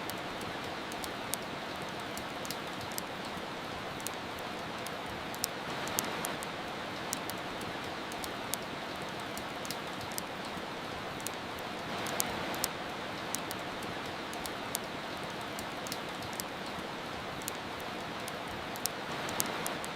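Steady soft rain with the scattered, irregular crackle and pops of a wood fire.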